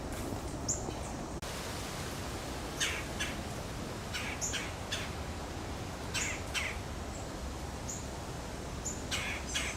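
Forest birds calling: scattered short, high chirps and several brief, harsher calls, some in quick pairs, over a steady background hiss.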